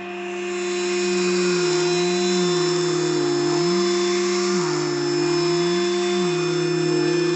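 Cordless handheld vacuum running with a steady motor hum. Its pitch drops and recovers several times as the motor comes under load and eases off.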